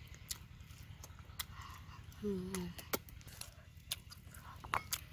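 A person chewing grilled chicken feet: wet mouth clicks and small crunches, scattered irregularly. A brief hummed "mm" comes a little over two seconds in.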